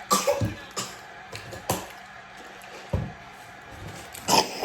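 Close-miked eating sounds: a handful of short, sharp wet smacks and squishes of food being bitten and chewed, the loudest near the end.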